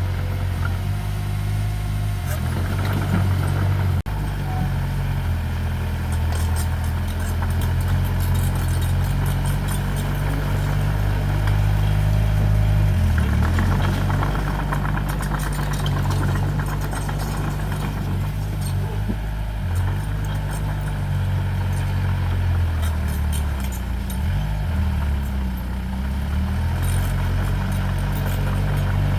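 Diesel engine of heavy earthmoving equipment running steadily. Its pitch dips and shifts briefly about 13 seconds in and again around 23 to 26 seconds in, with faint clicks now and then.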